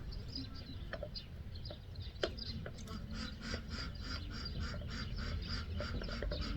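A bird calling in a quick repeated series, about four short calls a second, from a couple of seconds in, over a steady low rumble, with a few light knocks before the calls start.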